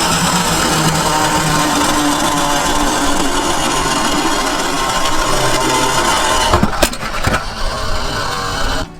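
Toy garbage truck running with a loud, steady, engine-like noise; a few sharp knocks about seven seconds in, then it cuts off abruptly just before the end.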